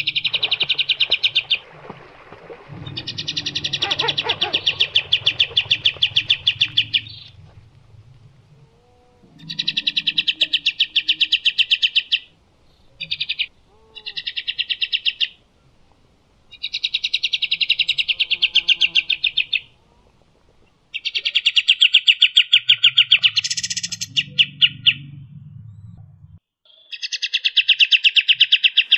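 A songbird repeating rapid, buzzy, evenly pulsed rattling trills. There are about eight phrases, most lasting one to four seconds, with short pauses between them.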